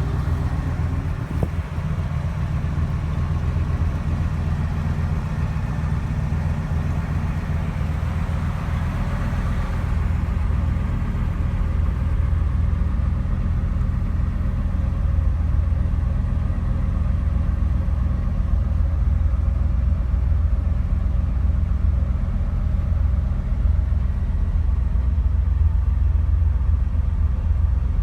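1974 Chevrolet Malibu's V8 engine idling steadily with a deep low rumble.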